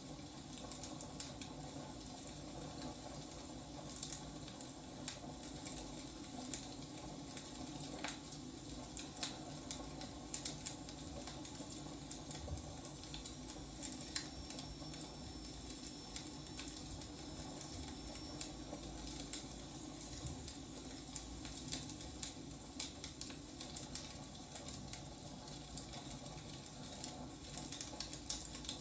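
Wood fire burning: frequent irregular sharp crackles and pops over a steady low hiss. A faint high whistle runs for several seconds midway.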